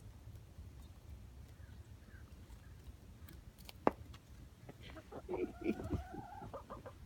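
Backyard hens vocalizing: a sharp click a little before four seconds in, then a hen's drawn-out call over low clucking through the last two seconds.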